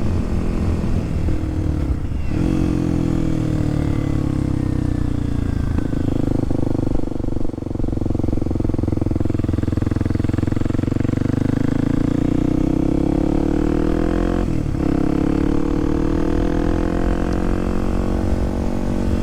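Kawasaki KLX300SM single-cylinder four-stroke engine pulling the bike along, its pitch slowly rising and falling with the throttle. There are two short breaks in the note for gear changes, about two seconds in and again about three-quarters of the way through.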